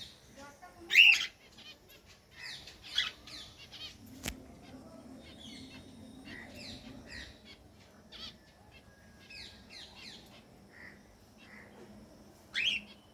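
Birds calling: many short, quick, downward chirps, with a loud squawking call about a second in and another near the end. A single sharp click sounds partway through.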